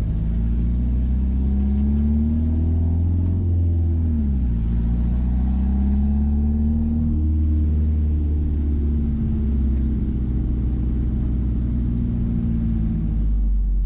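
Mazda B-series pickup's engine, fed by Holley Sniper throttle-body fuel injection, pulling on the road: the engine note climbs, falls sharply at a gear change about four seconds in, climbs again, then slowly eases off toward the end.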